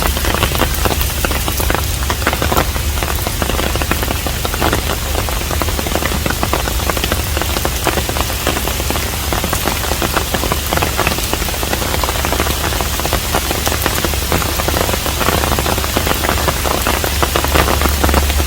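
Steady rain falling on a hanok, a traditional Korean house: dense, continuous drop impacts over a constant low hum.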